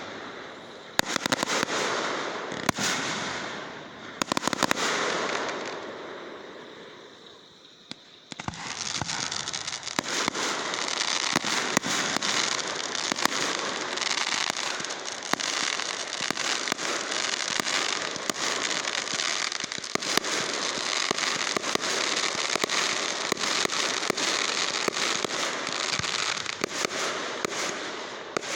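Fireworks going off: a few loud bangs each trailing into crackle, a brief lull, then from about eight seconds in a dense, unbroken crackle of many small rapid pops.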